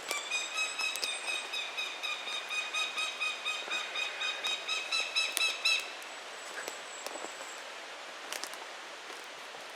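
A hawk calling a long run of rapid, evenly repeated harsh notes, about three or four a second, that stops about six seconds in. It is the bird's chimp-like call.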